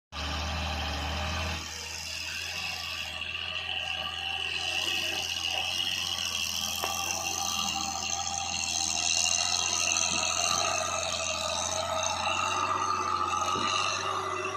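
Truck engine running with a steady low hum, overlaid by a whining drivetrain that shifts slowly in pitch and scattered light rattles and clicks.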